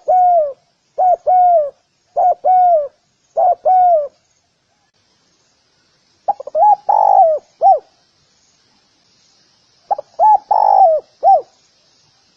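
Spotted dove cooing: a quick run of short two-note coos about a second apart, then after a pause two longer three-note phrases a few seconds apart.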